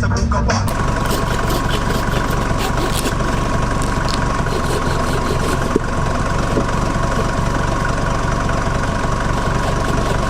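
Mercedes T1 camper van's engine running steadily, a dense rumble with a constant high whine. A music track cuts off just under a second in.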